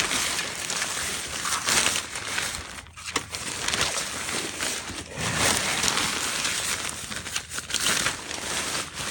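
Wet fabric motorcycle cover rustling and crinkling, loud on and off, as it is pulled off and bunched up.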